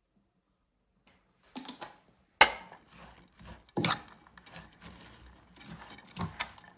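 A few sharp knocks and clatters of hard objects being handled, the loudest about two and a half seconds in and another near four seconds in.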